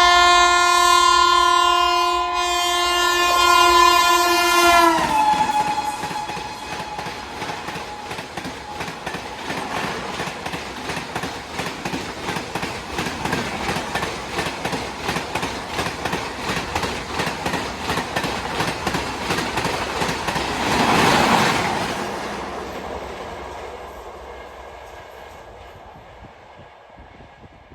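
Indian Railways express train passing at speed: a horn blast of about five seconds that drops in pitch as the locomotive goes by. It is followed by a rapid, even clickety-clack of coach wheels over rail joints, which swells once more and then fades as the train recedes.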